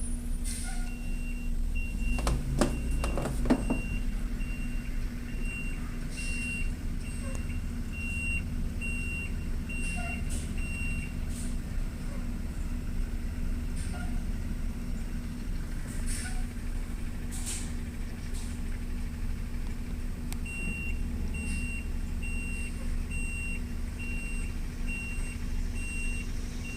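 A truck's reversing alarm beeping at an even pace over its running engine. The beeping stops for several seconds partway through and then starts again. There is a louder rumble and clatter early on.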